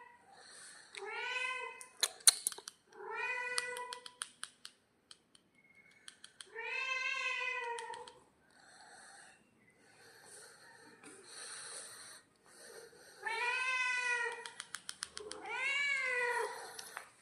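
Domestic cat giving long, drawn-out meows, about five of them with pauses between, each rising and then falling in pitch. A run of sharp clicks comes about two seconds in.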